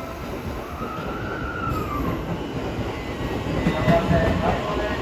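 JNR 185 series electric train rolling into the platform, wheels clattering on the rails and growing louder, with thin wheel or brake squeals near the end.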